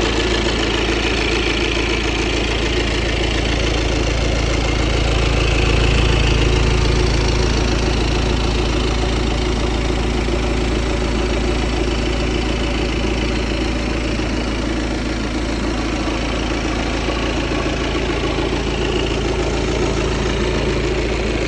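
Audi A5 engine idling steadily, heard close up from beneath the car.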